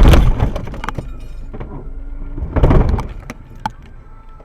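Vehicle collision caught by a dashcam: a loud crash right at the start and a second about two and a half seconds later, with breaking and clinking debris, then quieter after about three and a half seconds.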